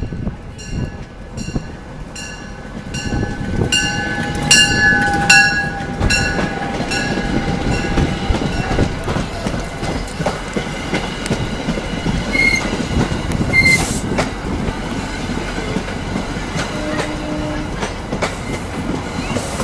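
MBTA commuter rail train pulling into the station: its bell rings about twice a second for the first several seconds, then the coaches rumble and click past over the rail joints, with a few short wheel and brake squeals as it slows.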